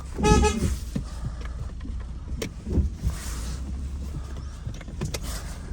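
Car being towed out of a bog: low steady vehicle rumble with scattered knocks and clunks, a short high pitched tone about a quarter of a second in, and a brief hiss around the middle.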